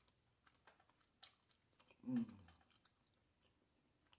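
Close-miked chewing of a mouthful of creamy chicken and rice, with soft wet mouth clicks and lip smacks, and a short hum of the voice about two seconds in.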